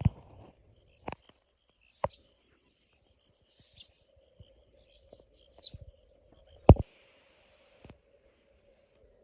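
Slow, separate footsteps on a hard, littered floor, each a sharp knock or scuff, the loudest about two thirds of the way in. Faint bird chirps sound in the background.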